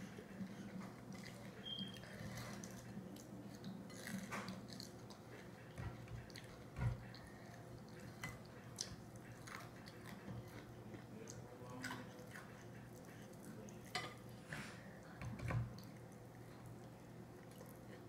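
Close-up wet chewing and biting of fried chicken, with scattered small mouth clicks and smacks and a few louder soft thumps.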